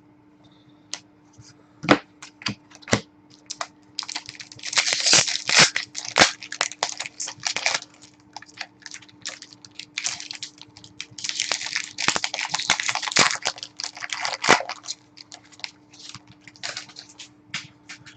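Hockey card packs being torn open and their wrappers crinkled, with cards flicked and shuffled: a run of sharp clicks and crackly rustling, heaviest about four to six seconds in and again from about eleven to thirteen seconds.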